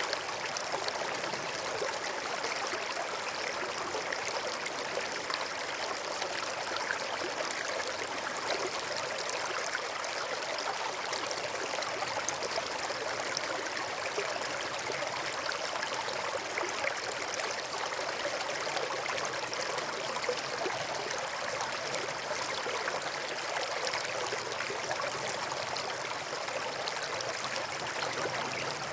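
A brook of running water flowing steadily, its babble of fine splashes even and unbroken.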